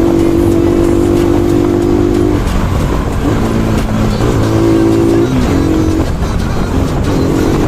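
Bajaj Pulsar NS200 single-cylinder engine running at a steady cruising note while riding. About two seconds in, the note breaks and wavers in pitch for several seconds as the throttle changes, then settles back to the steady note near the end.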